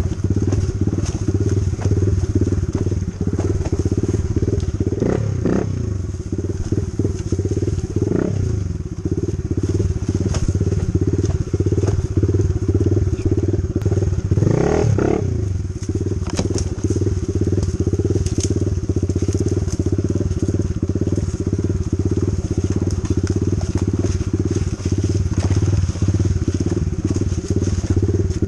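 Dirt bike engine running while riding a trail, its pitch swinging up and down a few times as the throttle is worked.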